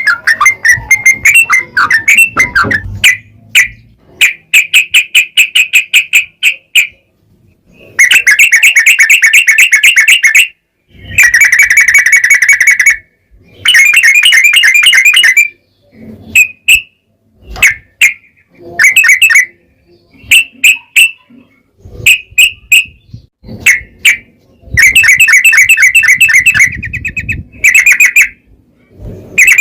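Yellow-vented bulbul (trucukan) singing: long, rapid rolling trills of two to three seconds each, broken up by short single notes and brief pauses.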